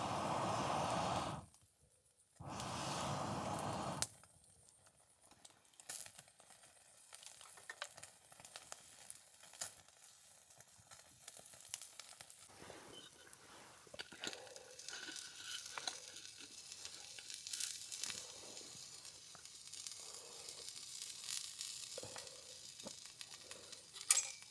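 Food sizzling and frying in a pan, with scattered crackles and small clicks. Near the start there are two short spells of steady rushing noise, each about a second and a half long, that stop abruptly.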